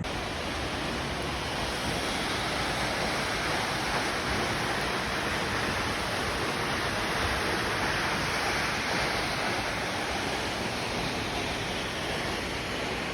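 Steady, unbroken rush of Kaaterskill Falls' water pouring down.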